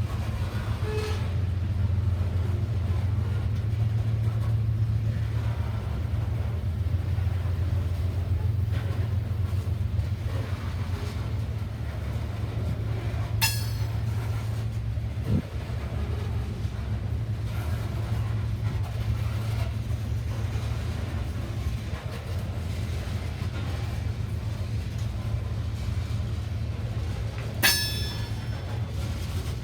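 Train rolling past with a steady low rumble, broken twice by a short, sharp metallic clank, once about halfway through and once near the end.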